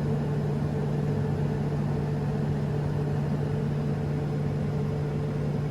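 Steady engine hum heard from inside a vehicle cab, with a constant low drone and a fainter higher tone over it.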